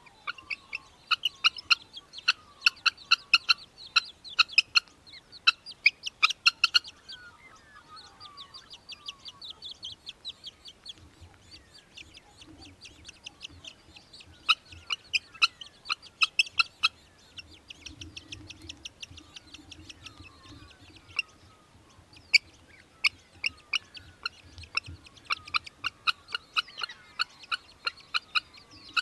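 Australian hobby (little falcon) calling in bouts of rapid, sharp repeated notes, a chattering series several seconds long, loudest at the start and again near the end.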